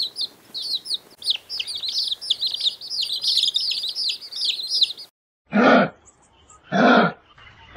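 Many small birds chirping rapidly over one another in a dense chorus. After about five seconds this stops abruptly and gives way to loud, drawn-out calls from a larger animal, about half a second each and repeating roughly every second and a quarter.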